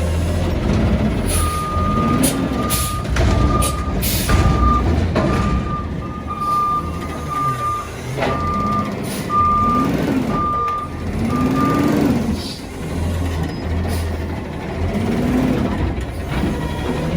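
Peterbilt refuse truck with a Heil body reversing: its backup alarm beeps about once a second for some ten seconds, then stops. Under it the diesel engine runs and rises and falls in pitch, with several short, sharp hisses of air.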